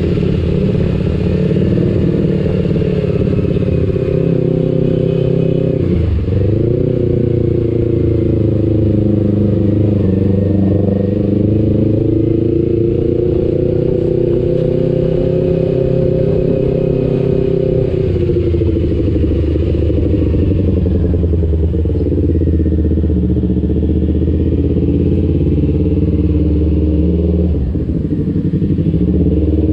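Kawasaki Ninja 250FI parallel-twin engine running through an aftermarket R9 H2 exhaust while being ridden. Its pitch rises and falls with the throttle, with a brief sharp drop and recovery about six seconds in and a drop in pitch around eighteen seconds.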